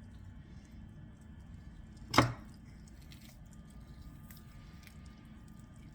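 A single sharp chop of a knife onto a cutting board while chicken breast is being cut off the bone, about two seconds in, with faint handling noise around it.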